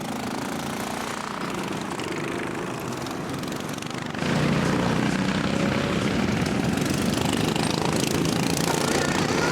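Racing lawnmower engines running at speed on the circuit, a steady buzzing drone that gets noticeably louder about four seconds in.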